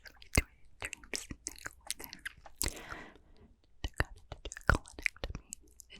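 Close-miked wet mouth clicks and pops in quick, irregular succession, with a short stretch of breathy inaudible whispering about two and a half seconds in.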